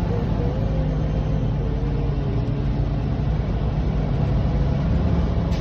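Semi truck's diesel engine running steadily, a low drone heard from inside the cab.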